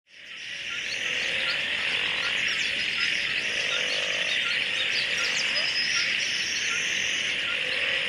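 Marsh ambience recording: a dense, steady chorus of insects trilling, with frogs calling and birds chirping over it, fading in from silence at the start.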